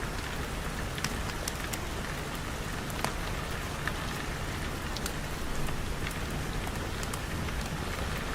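Steady rain, an even hiss with scattered sharp ticks of single drops hitting a surface.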